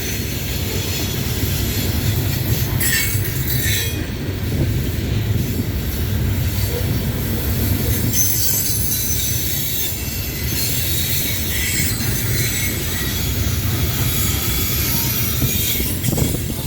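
Loaded coal cars of a freight train rolling past on a curve: a steady low rumble of wheels on rail with high-pitched wheel squeal over it.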